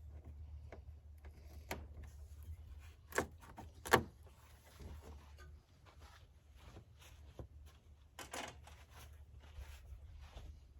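Scattered knocks, clicks and a short scrape from hand work taking RV parts apart. The loudest knocks come about three and four seconds in, over a low steady rumble.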